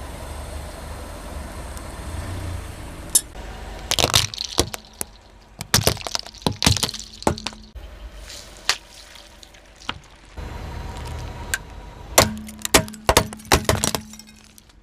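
Car tyre rolling over objects and crushing them: clusters of sharp cracks and breaking sounds over a steady low rumble, loudest in two bursts, one a few seconds in and one near the end.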